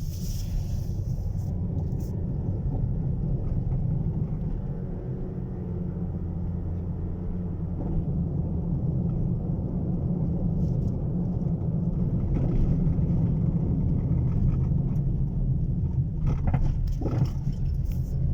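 A car in motion: steady low road and engine rumble heard from inside, with a few faint brief higher sounds near the end.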